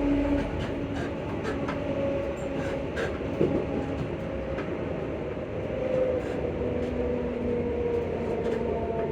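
Class 334 electric multiple unit on the move, heard from inside the carriage: a steady rumble of wheels on the track with faint, steady motor tones and scattered light clicks.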